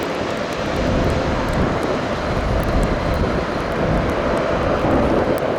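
Jet airliner's engines at takeoff power: a steady loud rush with a faint whine in it. Wind rumbles on the microphone and small rain ticks hit it.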